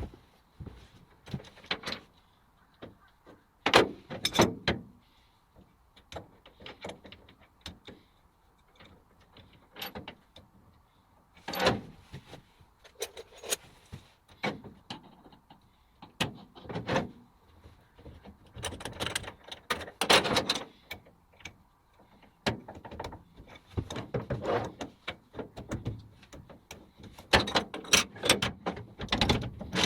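Irregular knocks, clicks and rattling clatters of hard objects being handled and set down, with several louder clatters among quieter ticks; no motor is running.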